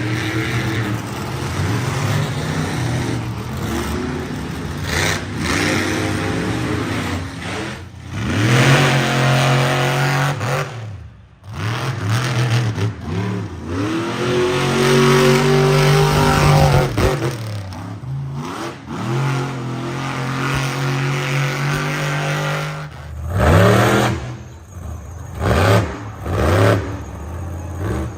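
A monster truck engine revving hard again and again, the pitch climbing and falling with each rev. It cuts out briefly about eleven seconds in, and there are several short, sharp revs near the end.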